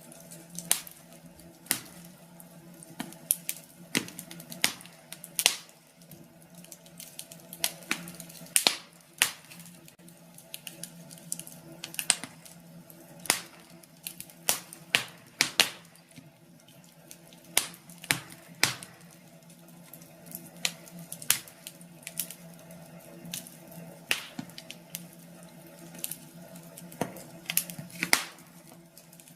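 Wood fire crackling in a fireplace: irregular sharp pops and snaps at uneven intervals over a faint steady low hum.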